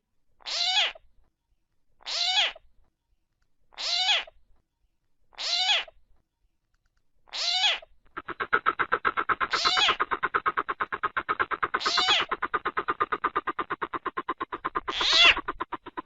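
Lure recording of greater coucal (bìm bịp) calls mixed with frogs: a short downward-sliding call repeats every one and a half to two seconds. About halfway through, a rapid pulsing frog trill of about eight pulses a second starts up beneath it and runs on.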